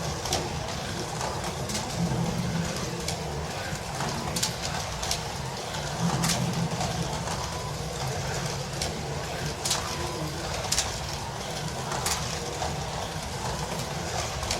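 1/32 Carrera Digital slot cars running laps on a plastic track: a steady, wavering low hum, with scattered sharp clicks throughout.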